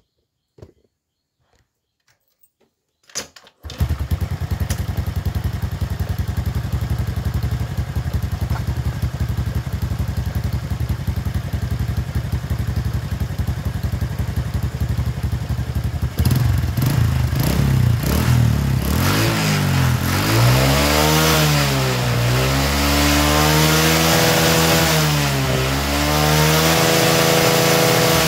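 Honda Karisma 125 motorcycle's single-cylinder four-stroke engine starting a few seconds in and idling steadily, then revved up and down several times in quick throttle blips in the second half.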